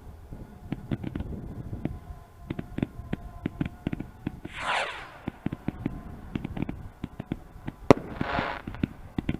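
Fireworks going off: rapid crackling pops throughout, a falling whistle about halfway through, and a sharp loud bang near the end followed by a brief hiss.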